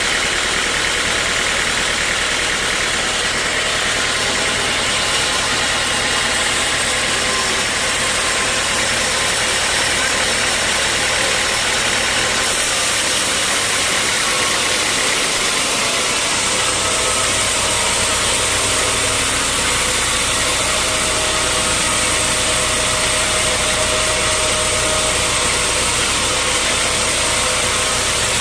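Sawmill machinery running steadily: a loud engine drone with a noisy hiss over it. About halfway through, the low hum drops away for a few seconds and then comes back.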